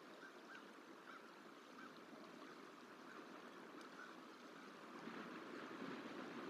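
Faint steady rushing of flowing water, with a faint series of short bird calls repeating about every half second over it.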